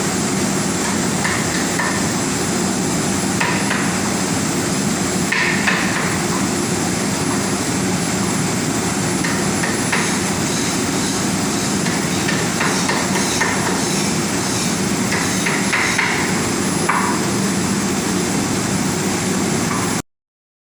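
Steady roar of street-stall cooking, frying over a burner, with light metal clinks and taps now and then. It cuts off suddenly near the end.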